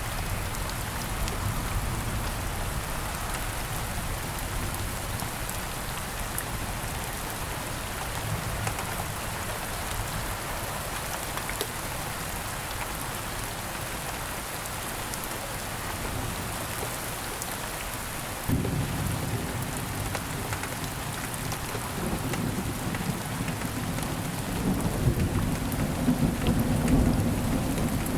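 Steady rain falling, an even patter and hiss. About two-thirds of the way through a low rumble of thunder sets in suddenly and grows stronger near the end.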